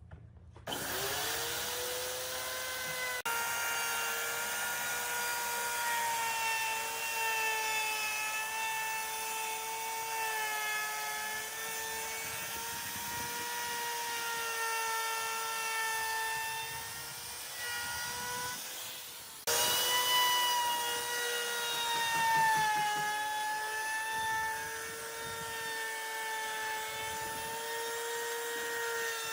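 A woodworking power tool's electric motor spins up about a second in and then runs with a steady high whine, its pitch wavering slightly under load. The sound jumps suddenly louder about two-thirds of the way through.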